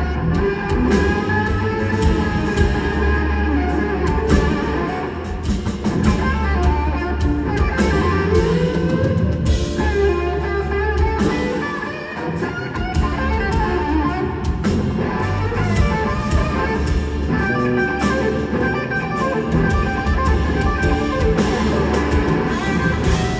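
Live band music: an electric guitar plays a lead line with wavering, gliding notes over bass guitar and drums.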